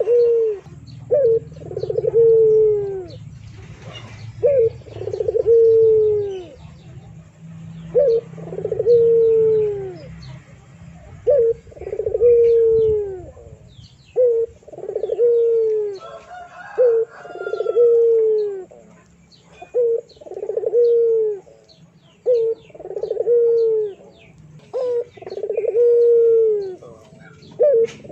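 A bird repeating a low, falling call about every two and a half seconds, each call often led by a short note, while other birds chirp faintly and higher.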